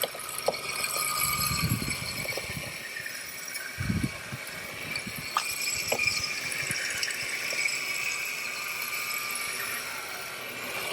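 MJX Hyper Go 14302 RC rally car's electric motor whining as it is driven and drifted, the whine shifting in pitch with throttle, along with rattling from the car and two low rumbles a couple of seconds apart.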